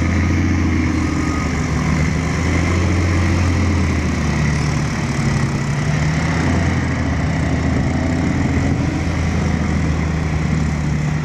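Heavy diesel engine of a ten-wheel dump truck running steadily with a deep, low hum, its pitch shifting a little now and then.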